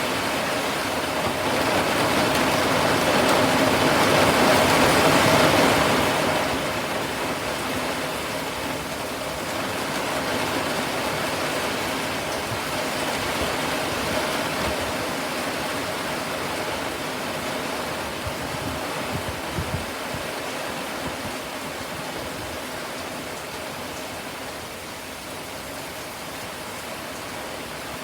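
Steady rain falling, an even hiss that swells louder for a few seconds near the start, then eases off and grows slowly quieter.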